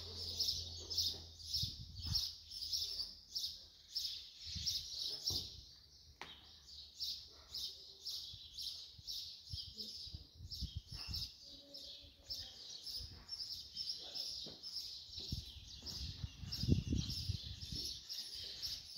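A bird chirping over and over in a quick, even rhythm, about three high chirps a second, with low rumbles of wind or handling on the microphone, the strongest near the end.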